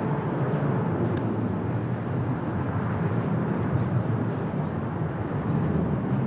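Airbus A321-231 airliner's IAE V2500 jet engines, a steady low rumble.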